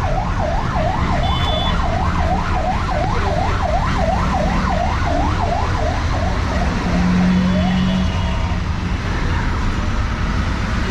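Emergency vehicle siren in a fast yelp, its pitch sweeping up and down about three times a second and fading out about six seconds in, over steady street traffic noise.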